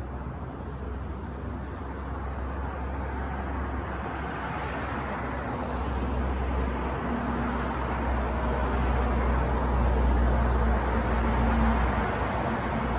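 City street traffic noise with wind rumbling on the microphone, a steady wash of sound that slowly grows louder. About halfway through, a faint low engine hum comes in.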